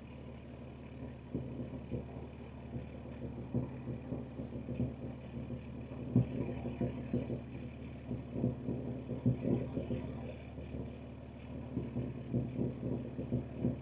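BMW M2 G87's S58 twin-turbo straight-six, breathing through catless downpipes, running at a steady low rev rather than pulling, with irregular low thumps and crackles over the engine note.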